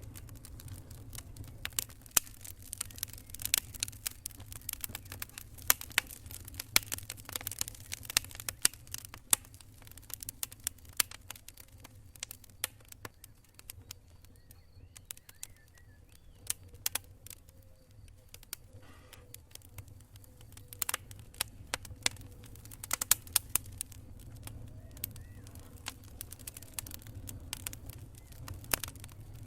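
Wood campfire crackling: irregular sharp pops and snaps, some much louder than others, over a steady low rumble.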